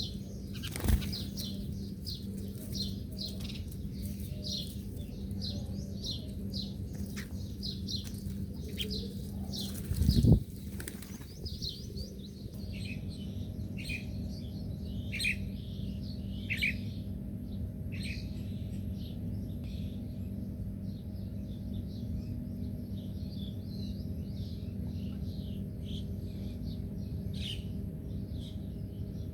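Small birds chirping in quick, repeated high notes, the calls growing sparser and changing in character about twelve seconds in. A sudden loud burst comes about a second in, and a louder, longer one at about ten seconds.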